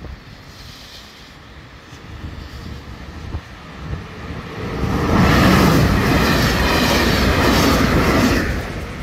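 Electric multiple-unit passenger train passing over a level crossing. It grows louder as it approaches, is loudest for about three and a half seconds as it goes by, and drops away near the end.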